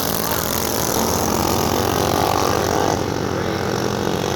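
Several racing minibike engines running hard together, their overlapping engine notes forming a steady drone.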